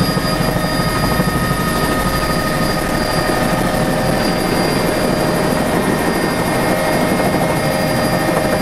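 Helicopter engine and rotor noise heard from inside the cabin during flight, a loud steady drone with a rapid blade chop.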